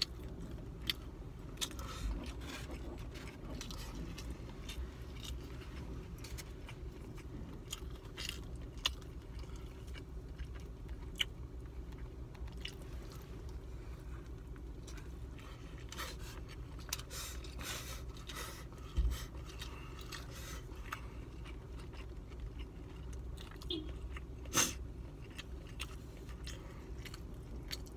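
A person chewing and eating goat meat and rice, with many small mouth clicks and a plastic fork scraping and tapping in a foam takeout container, over a steady low hum.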